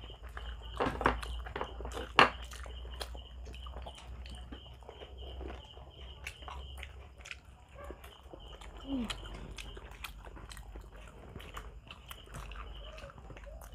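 Close-miked eating: people biting and chewing grilled Filipino barbecue meat pulled off bamboo skewers, with many sharp, wet mouth clicks and smacks. The loudest clicks come about one and two seconds in.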